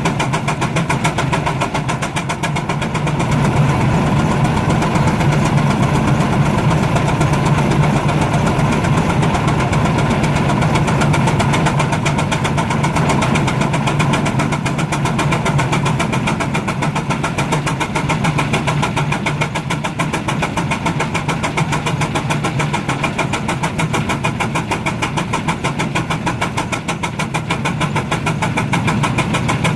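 Baker steam traction engine running steadily under load on a prony brake, with a fast, even beat.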